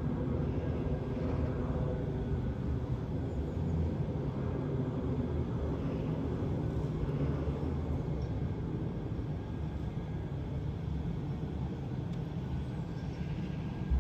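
Manchester Metrolink tram, a Bombardier M5000, running: a steady low rumble with a faint whine, easing slightly in the second half.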